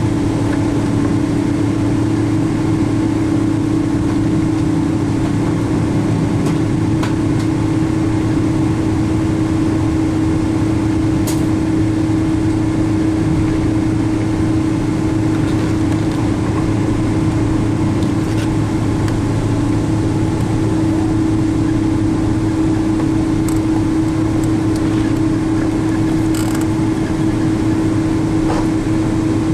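Steady drone inside the cabin of a Boeing 777-200 with its engines running: an even, constant hum with a low and a middle tone held throughout, and a few faint clicks.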